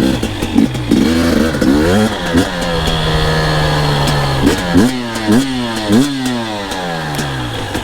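Two-stroke dirt bike engine revving up and down as it is ridden. It gives a few quick rises in pitch, holds a steadier, lower note about halfway through, then makes a run of short rev blips and a long falling note near the end.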